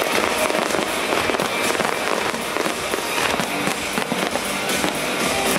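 Aerial fireworks bursting, with many rapid pops and crackles packed close together, as music plays alongside.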